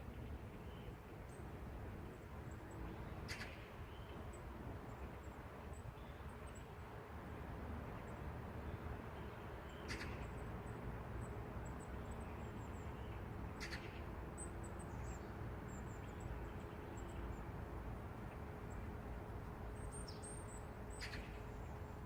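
Outdoor city ambience in the morning: a steady low rumble of distant traffic with a faint steady hum. Small birds chirp faintly and high now and then, and four short, sharp calls stand out over the rumble.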